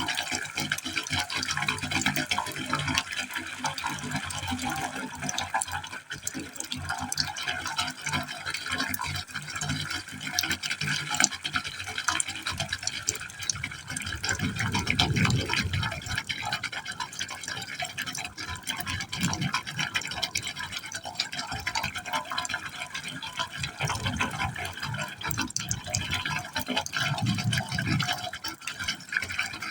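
Water falling into a hole in a pipe, splashing steadily. A deeper, hollower sound swells up from the pipe four times.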